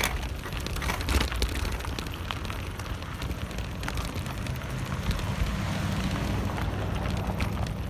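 Bicycle riding over a rough, loose, dry dirt trail: a continuous rumble of tyres on dirt with scattered rattles and clicks, and wind noise rumbling on the microphone.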